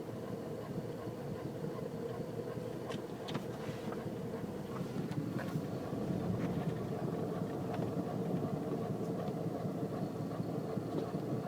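Ford Focus ST170 running, with a steady humming tone held over the engine sound and a few light ticks, getting slightly louder about halfway through. This is the strange noise the owner reports: it does not rise or fall with engine revs, and it carries on constantly while the car is stationary.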